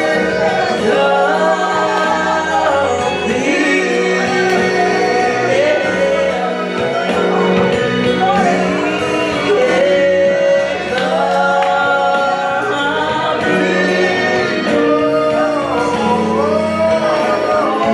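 Gospel praise-and-worship music: singing over instrumental accompaniment with held bass notes.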